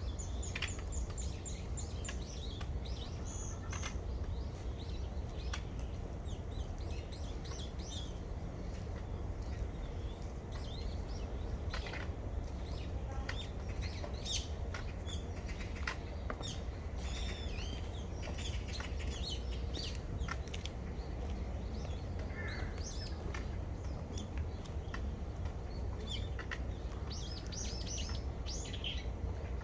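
Small songbirds chirping and singing, many short high calls and quick trilled runs of notes, over a steady low rumble.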